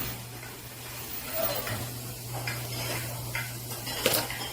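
Plastic coin-pusher chips and quarters clinking lightly as they are handled and gathered up, with a sharper clatter about four seconds in, over the steady hum of the machine.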